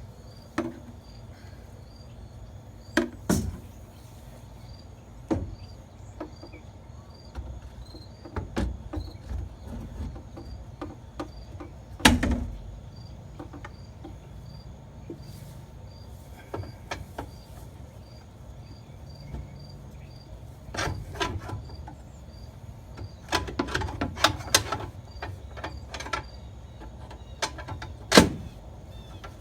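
Scattered knocks and clinks of rudder hardware being handled and fitted, a few of them louder, with a cricket chirping at an even pace in the background.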